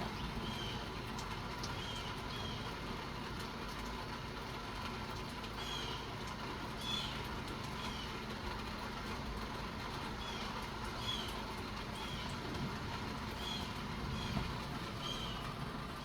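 A blue jay giving repeated short high calls, roughly once a second with a few pauses, over the steady hiss of light rain and an electric fan.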